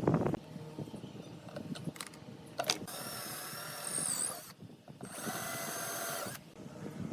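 Small electric power tool, like a drill, running in two short bursts of a steady whine, the first about two seconds long and the second about a second and a half.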